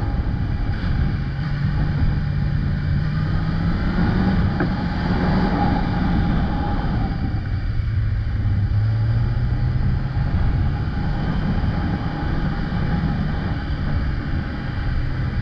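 Kawasaki ZX-10R's inline-four engine running under way, with steady wind rush. The engine note climbs a few seconds in, drops back a little later, and then holds steady.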